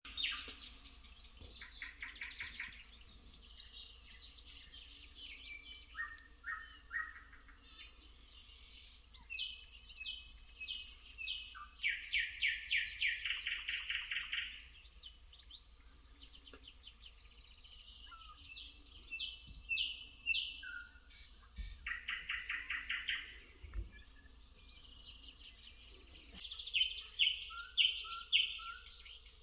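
Songbirds singing, several songs overlapping, with a fast trill about twelve seconds in and another about twenty-two seconds in.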